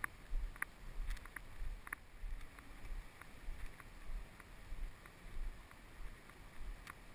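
Footsteps of a hiker walking on a trail, a dull thump about every half second, with a few light clicks.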